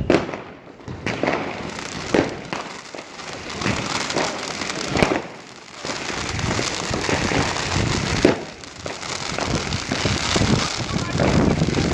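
New Year's fireworks going off: several sharp bangs, with stretches of dense crackling between them.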